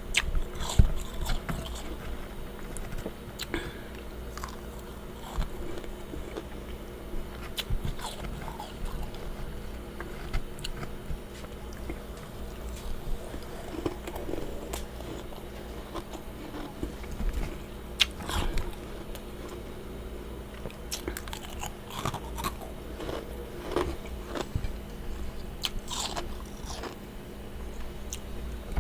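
A person biting and chewing freezer frost, a string of irregular crisp crunches close to the microphone. A steady low hum runs underneath.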